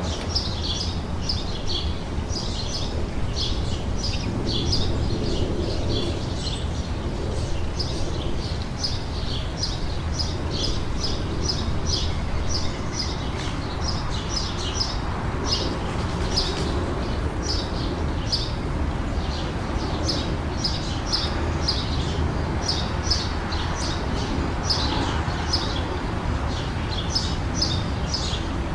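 Small songbirds chirping and twittering, a dense run of short high chirps repeating several times a second, over a steady low hum.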